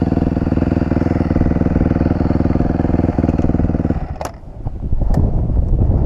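Dirt bike engine idling, then shut off abruptly about four seconds in. A few sharp clicks and knocks follow.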